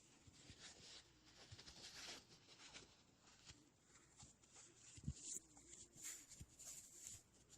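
Faint ASMR trigger sounds: soft scratchy brushing strokes with a few light taps, the clearest taps about five and six seconds in.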